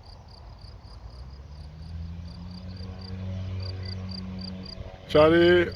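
Crickets chirping in a steady pulse, about four or five chirps a second, over the low drone of a light propeller aircraft's engine that rises a little in pitch from about a second and a half in as it powers up. Near the end a brief loud call with a wavering pitch cuts in.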